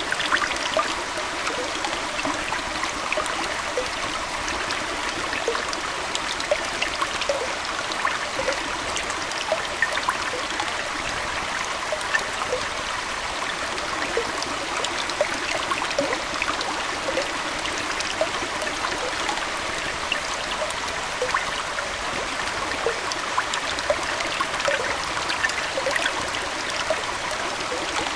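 Aquarium water flowing and trickling steadily, with a constant scatter of small bubbling splashes.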